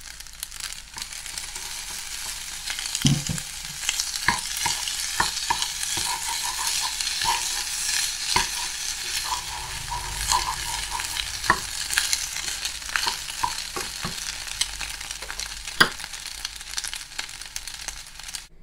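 Fried rice with shrimp and vegetables sizzling in a nonstick frying pan as a wooden slotted spatula stirs and turns it, with frequent scrapes and knocks of the spatula against the pan. The stirring starts in earnest about three seconds in.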